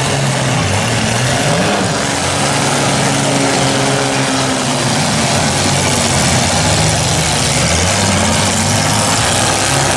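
Several compact demolition derby cars' engines running and revving together, their pitch rising and falling over a steady loud wash of noise.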